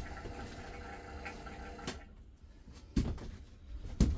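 RV water pump running steadily as it draws antifreeze into the lines, then switched off about two seconds in. Two dull knocks follow near the end.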